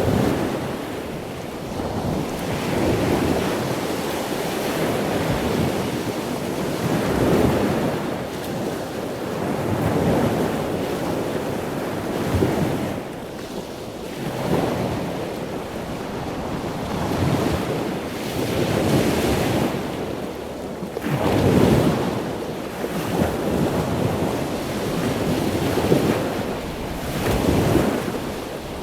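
Ocean surf: waves breaking and washing in, the rushing noise swelling and ebbing in surges every two to four seconds.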